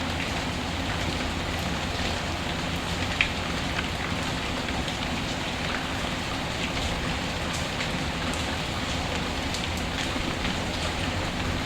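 Steady rain pattering, with scattered small crackles from a wood fire and one sharp pop about three seconds in.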